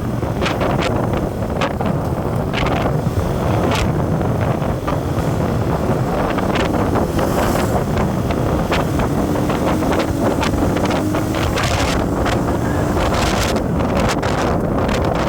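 Wind buffeting the microphone over steady road and engine noise from a moving vehicle, with frequent short knocks and gusts.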